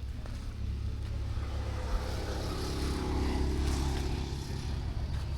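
A motor engine hums, swelling to its loudest about halfway through and then fading, as a vehicle does when it passes, over a steady low rumble.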